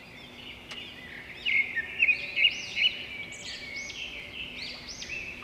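Several small birds chirping and singing in quick, overlapping high arched notes, busiest and loudest from about a second and a half to three seconds in.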